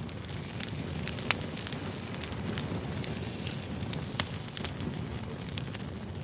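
Firewood burning, with a steady low rumble and irregular sharp crackles and pops; the strongest pops come about a second in and about four seconds in.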